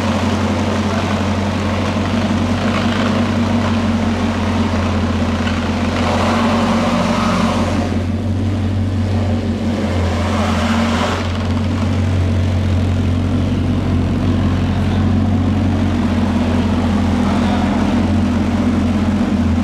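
Bugatti Chiron Super Sport 300+'s quad-turbo W16 engine idling steadily.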